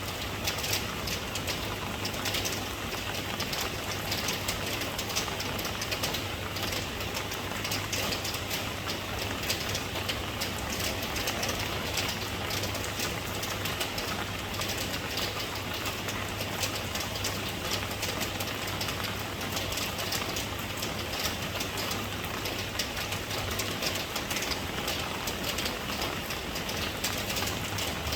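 Steady rain: a dense, even patter of drops over a constant low rumble.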